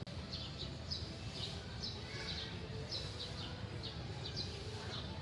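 Small birds chirping, short high falling chirps repeated about twice a second, over steady low background noise.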